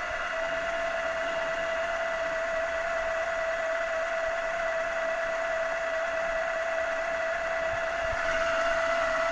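Milling machine spindle running with a steady whine while a centre drill is fed into a bronze die blank to spot the die's single pip, about 1 mm deep. The high hiss rises slightly near the end.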